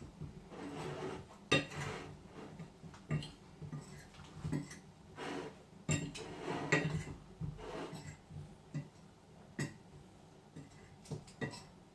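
Raw potatoes being tossed in flour in a bowl: soft rustling with irregular clinks and knocks of dishes and utensils.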